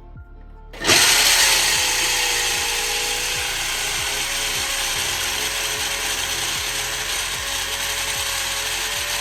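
Power drill boring a hole through a wall, starting about a second in and then running steadily with a constant whine.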